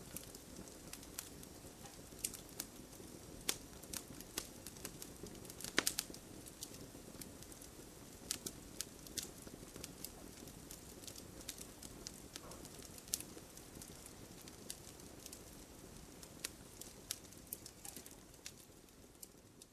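Wood campfire crackling: irregular sharp pops and snaps over the low steady rush of the burning fire, with a cluster of louder pops about six seconds in.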